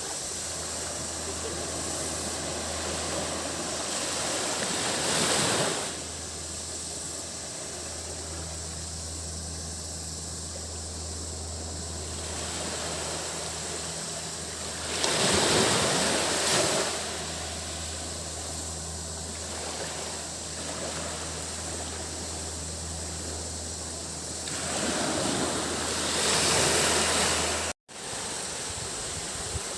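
Waves washing onto a beach, swelling louder three times, about ten seconds apart, over a steady surf wash. A constant high cicada drone runs underneath.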